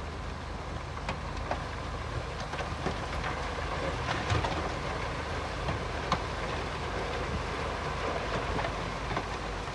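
Bulldozer's diesel engine running steadily under irregular metallic clanks and knocks, as of steel tracks and blade working over stone; two sharper knocks stand out about four and six seconds in.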